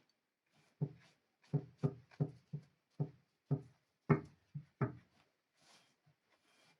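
A quick run of about ten sharp knocks, roughly three a second, each with a short low ring, then a few fainter taps near the end.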